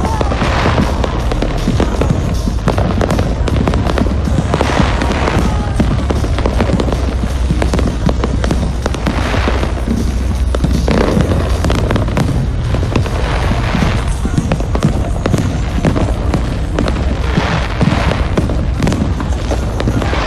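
Firework display: dense, continuous crackling and popping with booms, swelling every four seconds or so as new shells burst. A whistling glide sounds near the start.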